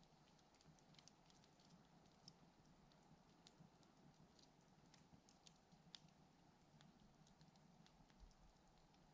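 Faint, irregular crackling and small pops of a wood campfire, a few ticks a second over near silence.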